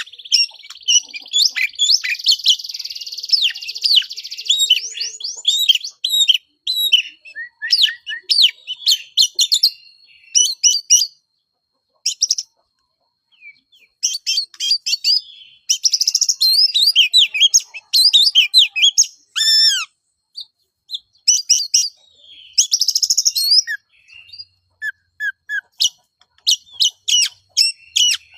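Oriental magpie-robin (kacer) singing loudly in its aggressive 'fighting' style. The song is a fast, varied run of sharp whistled notes, rapid slurs and harsh buzzy phrases, given in bursts with brief pauses.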